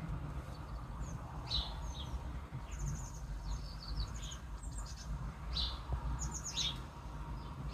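Small songbirds chirping: short high chirps and quick trilled runs of higher notes, coming every second or two, over a steady low background rumble.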